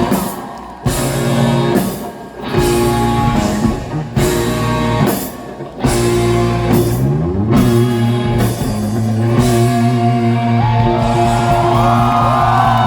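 Live rock band playing loudly: electric guitars, bass and drum kit hitting together in stop-start accents with short gaps, then settling into sustained playing with bending lead lines over it near the end.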